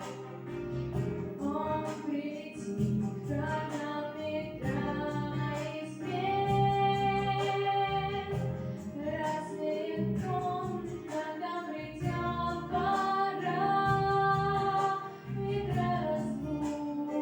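A female voice singing a song, holding long notes over accompaniment with plucked strings.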